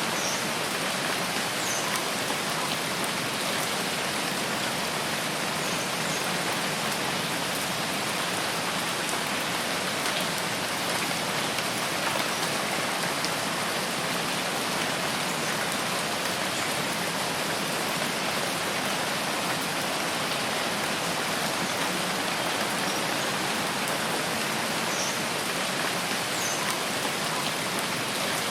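Steady rain falling, an even unbroken hiss, with a few faint short high chirps here and there.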